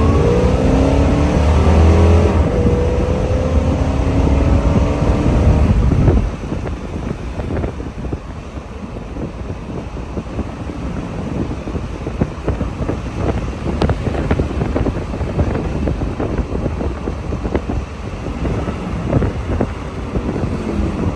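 1969 Corvette's 427/435 big-block V8 pulling hard, its engine note rising in pitch. About six seconds in the engine sound drops sharply, leaving a quieter, rough rumble with wind noise and scattered crackles.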